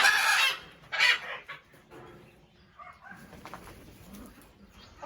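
A large parrot's harsh, noisy squawks, two short ones in the first second or so, followed by soft, faint chatter.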